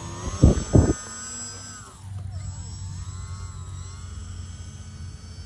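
A 3D-printed RC plane's electric motor and propeller whining: the pitch rises under throttle, drops near two seconds in, then wavers up and down as the plane taxis over rough grass. Two loud thumps come about half a second in.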